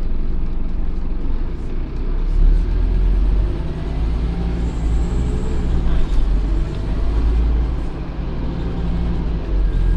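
Scania OmniCity N230UD double-decker bus's engine running with a deep rumble whose level rises and falls.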